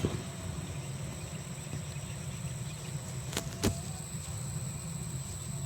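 Steady low drone of a running vehicle, with two sharp clicks in quick succession about three and a half seconds in.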